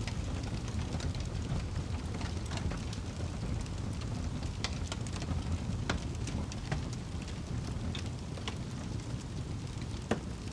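Wood fire burning in a fireplace: a steady low rumble of flames with scattered sharp crackles and pops, the loudest near the end.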